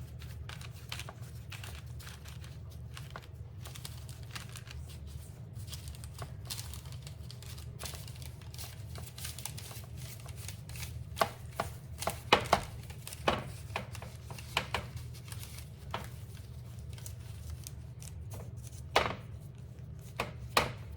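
Hands rolling up the edges of puff pastry on a parchment-lined cookie sheet: faint crinkling of the parchment and soft taps, with a run of sharper clicks and taps in the middle and again near the end, over a steady low hum.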